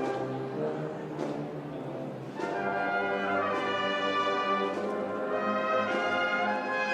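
Brass band playing a Holy Week processional march: sustained brass chords, softer for the first couple of seconds, then swelling louder about two and a half seconds in, with a few drum strokes.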